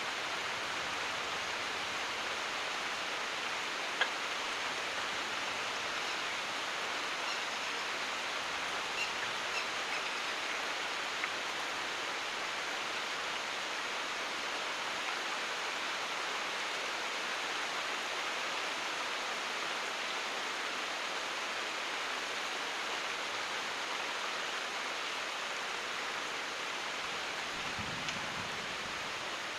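Steady rain falling, an even hiss with a few sharper ticks of single drops landing now and then.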